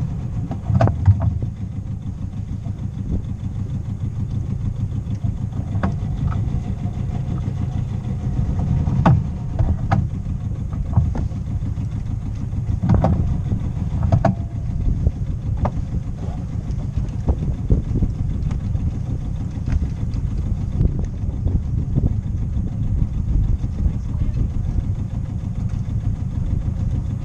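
Sailboat's auxiliary engine running steadily at low speed while motoring in to a marina slip, with a few sharp knocks now and then.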